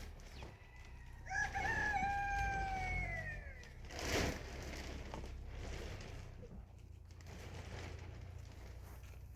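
A rooster crowing once: one long call of about two and a half seconds that drops in pitch at the end. A short knock follows just after.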